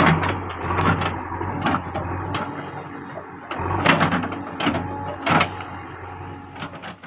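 JCB backhoe loader's diesel engine running steadily, with the bucket scraping and knocking against rock again and again as it clears soil.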